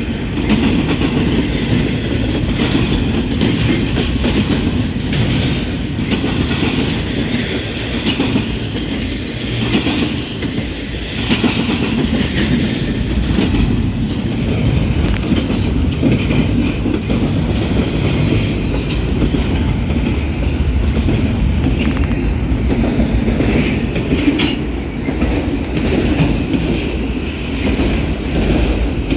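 Norfolk Southern freight train rolling steadily past at close range, its cars' wheels running over the rails.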